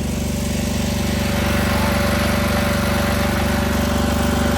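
Engine running steadily with a rapid, even pulse, and a broad hiss that builds up from about a second in.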